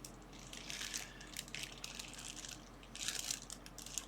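Small packaging being handled at a workbench: bursts of crinkling and rustling, loudest about three seconds in.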